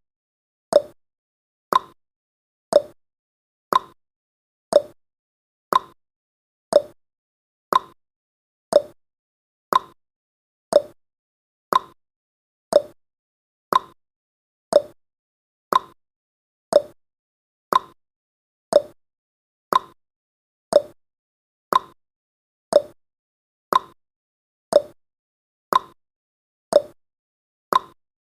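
Countdown timer's clock-style tick-tock sound effect: one short tick every second, alternating higher and lower in pitch.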